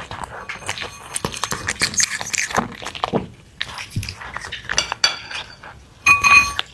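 Kitchen utensils knocking and scraping against dishes in a run of small clicks, then a loud ringing clink about six seconds in, as of a utensil striking a metal or ceramic bowl.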